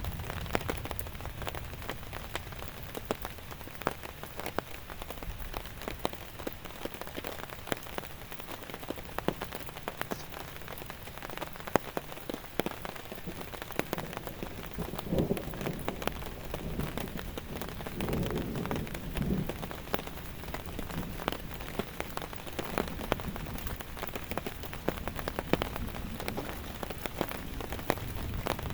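Rain falling steadily, many separate drop hits over a constant hiss, with a couple of brief low rumbles about halfway and two-thirds through.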